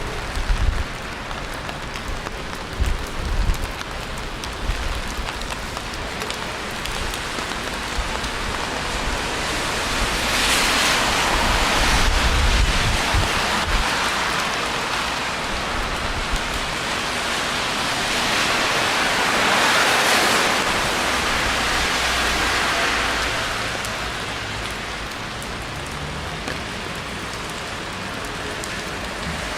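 Steady rain hissing, swelling louder twice, about ten and twenty seconds in. There are a few low bumps in the first few seconds.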